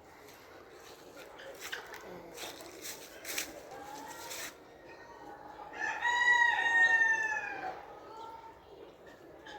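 A rooster crowing once, a drawn-out call of about two seconds that starts about six seconds in and falls away at the end. Before it come light clicks and rustles.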